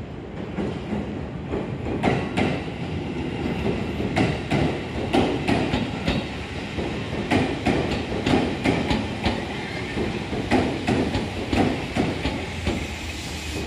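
Seibu 2000 series electric train rolling slowly past on a shunting move, its wheels clacking over rail joints and switches in an uneven run of knocks.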